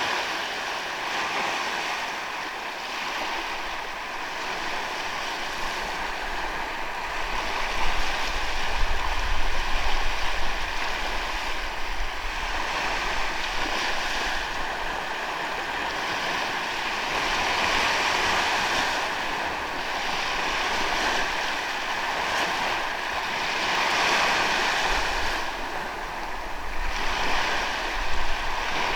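Ocean waves washing onto a sandy beach, the surf swelling and easing every few seconds. Low gusts of wind buffet the microphone about a third of the way in and again near the end.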